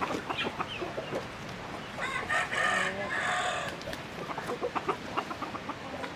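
Chickens clucking, with a rooster crowing once about two seconds in, the crow lasting about a second and a half.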